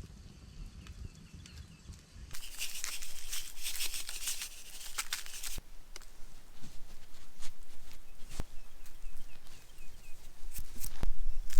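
Crunching, crackling noise full of clicks, starting about two seconds in and easing off after about five seconds into scattered clicks and ticks, with a few faint high chirps.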